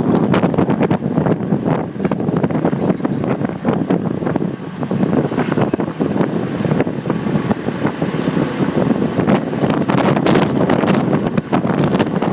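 Wind buffeting the microphone of a phone mounted on a moving motorcycle, a loud, constant rough rumble with the motorcycle's road and traffic noise underneath.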